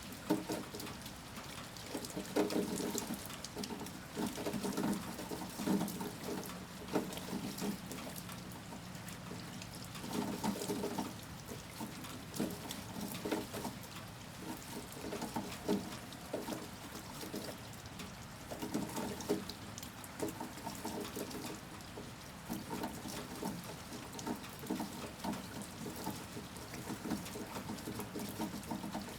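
Heavy rain falling, with close pattering drips and water pouring and splashing in irregular surges.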